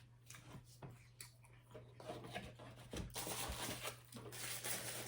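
Faint crunching and rustling as a cinnamon twist snack is eaten and its paper wrapper handled, with a longer rustle about three seconds in, over a low steady hum.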